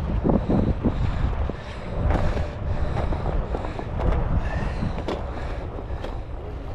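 Wind buffeting the microphone with a rumble, over the rush of river water, with scattered small knocks and rustles.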